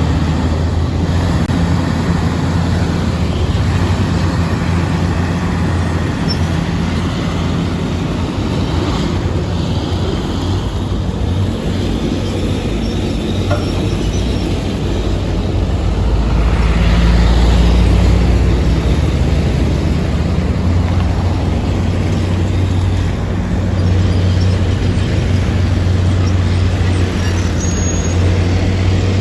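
Heavy diesel construction machinery running steadily with a deep, continuous engine drone and mechanical noise, growing louder for a couple of seconds just past the middle.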